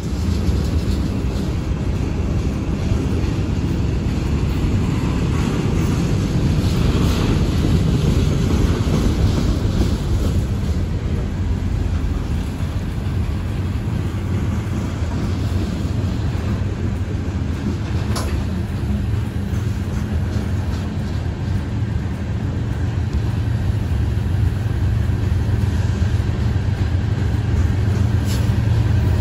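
Freight train of loaded covered hoppers and tank cars rolling past at speed: a steady rumble of steel wheels on rail with an occasional sharp click. Near the end a diesel locomotive's engine drone grows louder as locomotives further back in the train come closer.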